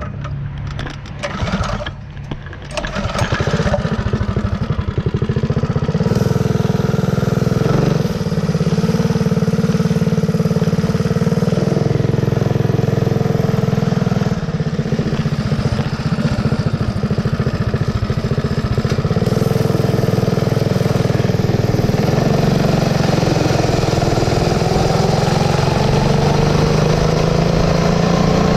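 Mini bike's Predator 212 single-cylinder four-stroke engine running under way, picking up about three seconds in. It then holds a steady drone with small throttle changes, and its pitch rises near the end.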